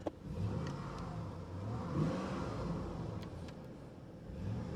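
4x4 truck's engine running while under way, pulling up a little about two seconds in, easing off, then rising again near the end.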